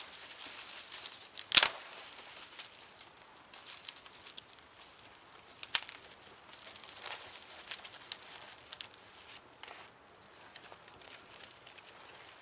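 Wood campfire crackling, with irregular sharp pops; the loudest snap comes about a second and a half in and another just before six seconds.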